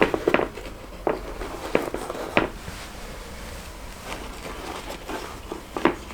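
A handful of light, irregular knocks and clicks of objects being handled, loudest at the start and about two and a half seconds in.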